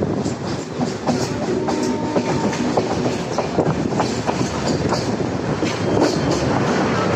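Electric suburban local train running along the track, its wheels clicking and clattering over the rail joints, with a faint steady whine in the middle.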